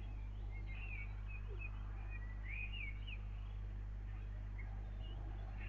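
Small birds chirping, with short swooping whistled notes, most of them in the first half, over a steady low hum.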